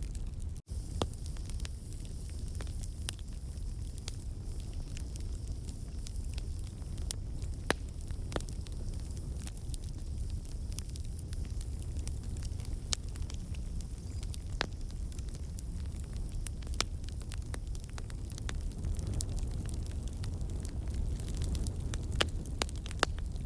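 Campfire of burning logs: a steady low rumble of flame with scattered sharp pops and crackles from the wood, a few louder than the rest. The crackling is the sap and water trapped in the wood turning to steam and bursting out.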